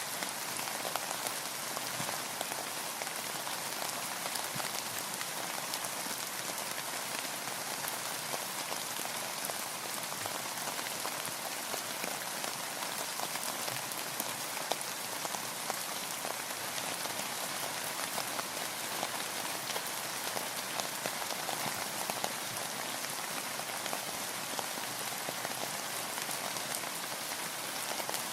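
Steady, even rain: a dense hiss of falling rain with many small drop ticks on a close surface.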